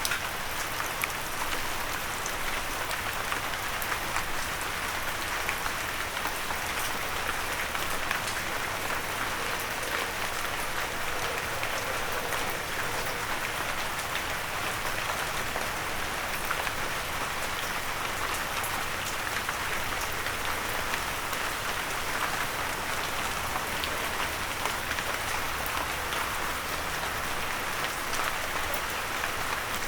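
Steady rain falling, with many small drops pattering on a windowsill.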